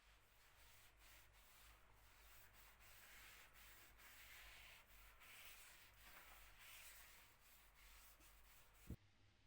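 Faint rubbing on a wooden surface, by hand with a cloth or sandpaper, swelling and fading in strokes. A short thump comes near the end.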